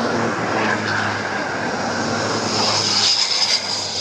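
Heavy diesel machinery running steadily with a low hum, and a high whine that grows louder about two and a half seconds in.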